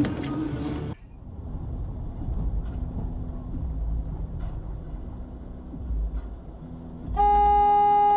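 Traffic and engine noise, then near the end one loud, steady car horn blast lasting about a second and a half.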